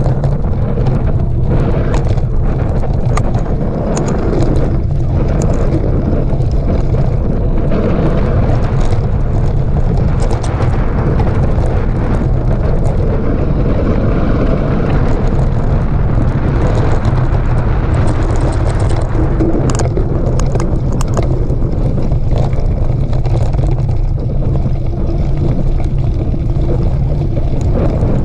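Wind buffeting a camera microphone on a mountain bike riding a dirt trail: a steady, loud low rumble, with scattered short rattles and clicks from the bike over rough ground.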